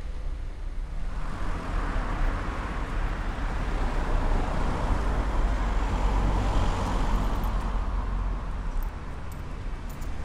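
A car driving past on the street, its tyre and engine noise swelling over a few seconds and then fading away, over a steady low rumble.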